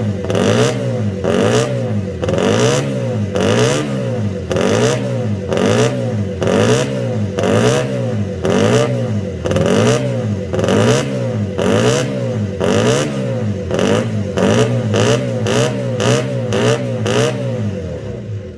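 Honda RC142 125 cc twin-cylinder racing engine being revved in repeated blips, its pitch rising and falling about three times every two seconds. It dies away right at the end.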